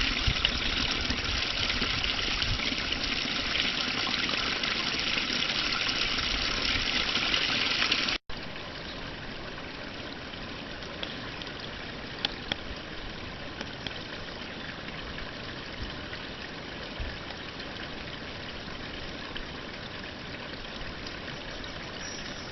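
Steady rushing of flowing river water. About eight seconds in, the sound cuts out for an instant and comes back quieter, as a different water recording.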